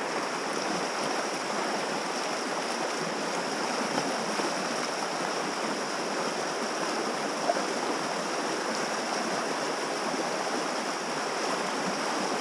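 Fast river water rushing through a rapid where a packraft risks capsizing, a steady, even hiss with no break.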